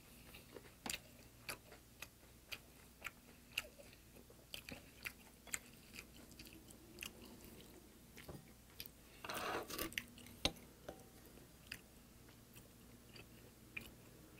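Close-miked chewing of a large mouthful of a lettuce wrap of rice and braised sardines: soft, wet mouth clicks about two a second, thinning out later, with a brief louder rustle about nine seconds in.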